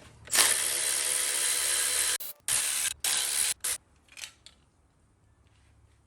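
A handheld power tool running in three bursts while removing engine fasteners: one of about two seconds, then two shorter ones of about half a second, with a few faint clicks after.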